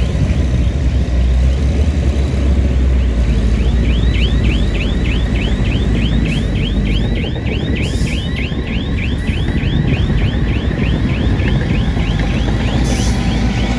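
Heavy diesel earth-moving machine running steadily, with a rapid train of short high-pitched squeaks, about four a second.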